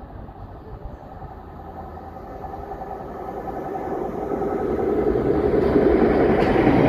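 Thameslink Class 700 electric multiple unit approaching along the line, growing steadily louder. A rising rumble carries a few steady whining tones.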